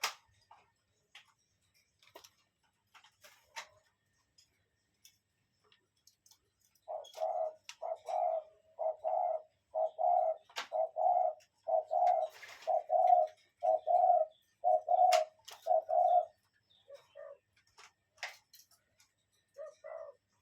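A bird calling in a long, even run of short, low, cooing notes, about two a second, that fade to a few scattered notes near the end. Faint sharp clicks are scattered throughout.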